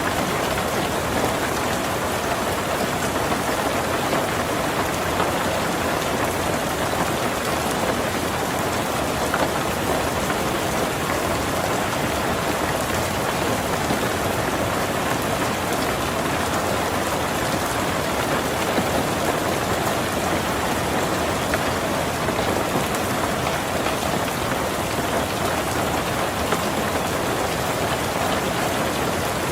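Heavy rain falling steadily on a tin roof, an even unbroken patter.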